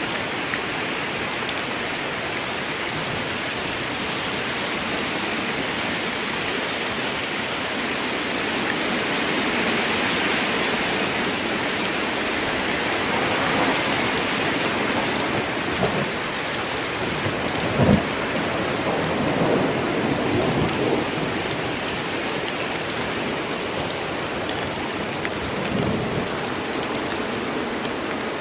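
Steady heavy rain falling in a forest, an even hiss. About two-thirds of the way through there is a short low thump, followed by a few fainter low rumbles.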